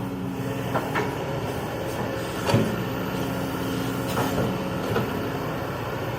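Kobelco excavator's diesel engine running steadily, with several sharp knocks over it; the loudest comes about two and a half seconds in.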